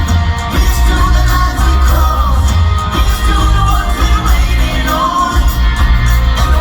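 Live rock band playing with a lead vocalist singing, heavy bass and drums, with some shouts from the crowd.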